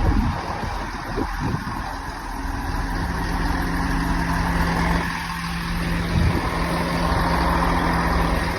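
Class 165 diesel multiple units idling at a standstill: a steady low diesel engine rumble with a constant hum.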